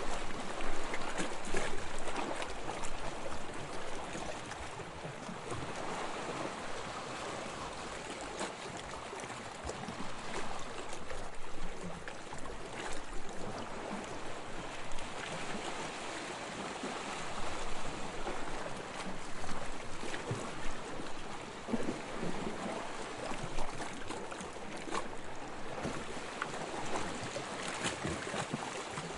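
Sea water washing and lapping: a steady rush that swells and eases every few seconds, with light splashes.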